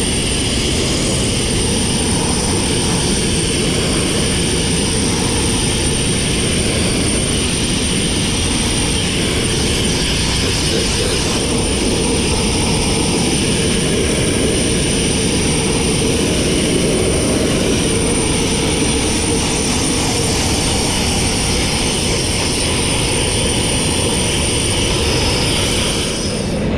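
Abrasive blasting with crushed glass: a loud, steady rush of compressed air and grit from the blast nozzle, with a faint high whistle.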